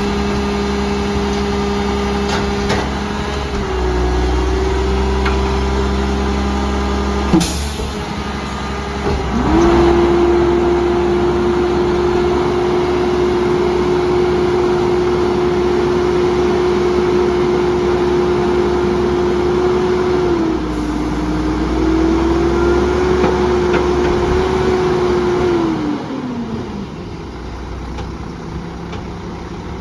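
Garbage truck's diesel engine running, with a sharp clack about seven seconds in; then the engine revs up, holds a steady high speed with one brief dip, and drops back to idle near the end.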